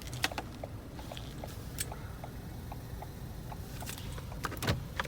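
Scattered light clicks and knocks over a low, steady rumble.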